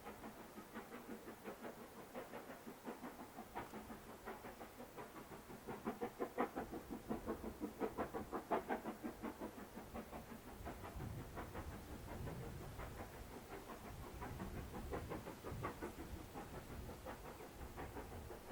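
Steam locomotive running with its train, a rapid even beat of about five a second, growing loudest from about six to nine seconds in and then easing off.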